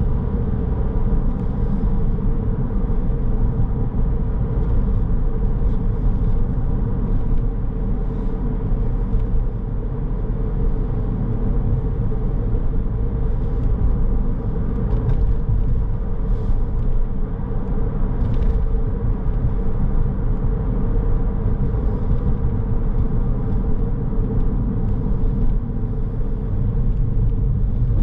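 Car driving along at a steady pace: continuous low road and engine rumble with a steady hum from the tyres and drivetrain, and a few faint short clicks and rattles.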